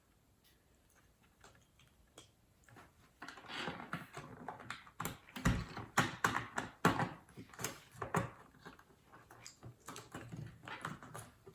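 LEGO plastic bricks being handled and pressed back together: a string of small clicks and clatters, with one heavier knock about five and a half seconds in. A broken part of the model is being re-seated where a brick was not pushed down hard enough.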